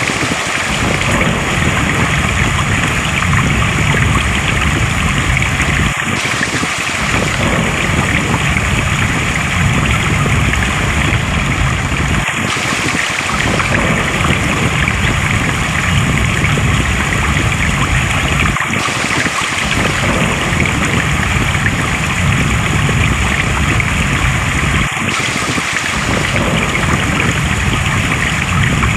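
Flowing water rushing steadily, a loud, even wash. The same stretch repeats about every six seconds, like a short recording played in a loop.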